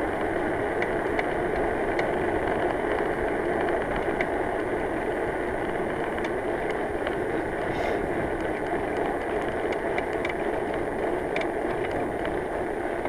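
Bicycle being ridden, a steady rushing noise with scattered light clicks at irregular intervals from the rear hub, which the rider takes as a sign that the hub needs repacking.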